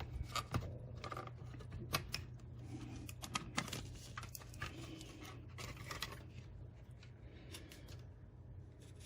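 Plastic case of a Seagate Backup Plus hub enclosure being pried at its snap clips: irregular sharp clicks and snaps, thinning out after about six seconds.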